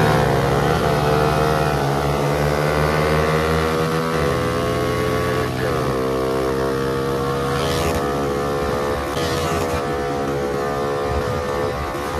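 A Honda Wave 110i's single-cylinder four-stroke engine, bored out with a 56 mm piston, runs at high revs under full throttle, its pitch climbing slowly. The pitch breaks briefly about four seconds in, then keeps rising. Wind rushes over the microphone.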